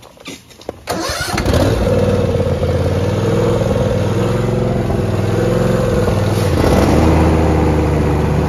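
A few clicks, then the John Deere Z320R zero-turn mower's engine starts about a second in and runs steadily. About six and a half seconds in its sound shifts and stays steady at the new note.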